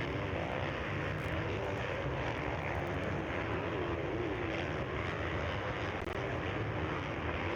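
Several motocross bikes racing, their engines revving up and down in pitch as the riders accelerate and ease off around the track, over a steady low drone.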